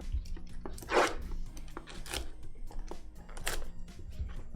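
Background music under three short bursts of rustling and scraping from trading cards and packs being handled, the loudest about a second in.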